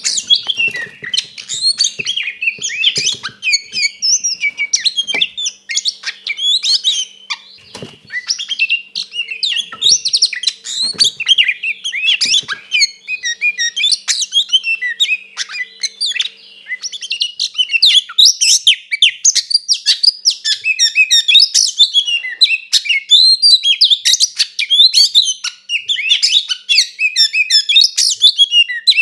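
Oriental magpie-robin (kacer) singing without pause: a loud, rapid stream of varied whistles, chirps and harsh notes.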